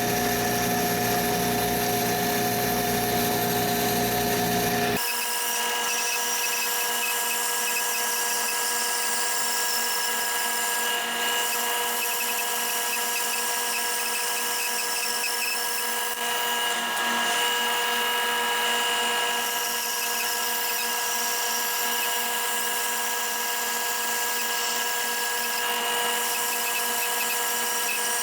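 A power tool running steadily in a woodworking shop, with a constant whine of several steady pitches. About five seconds in the sound changes abruptly and loses its low rumble, as if it cuts to another stretch of tool noise.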